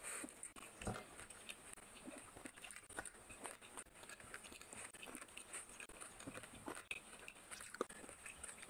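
Close-miked eating sounds: soft wet chewing and lip smacks while rice and curry are mixed by hand on a plate, heard as irregular quiet clicks over a faint steady hiss.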